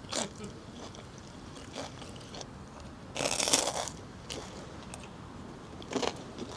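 Close-up biting and chewing of crisp grilled breakfast food: a few short crunches, the loudest and longest about three seconds in.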